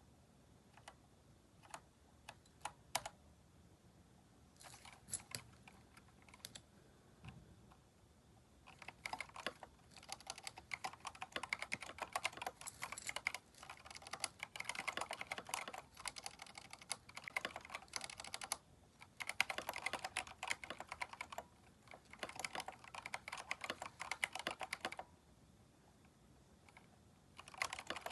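Typing on a Keychron K4 mechanical keyboard fitted with replacement keycaps. A few separate keystrokes come first, then fast, continuous typing in runs with brief pauses, stopping for a moment and starting again near the end.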